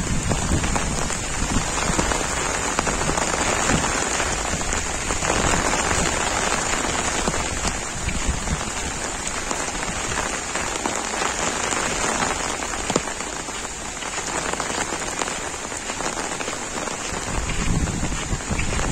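Heavy monsoon rain falling steadily on leaves, fields and a wet paved lane: an even, unbroken hiss.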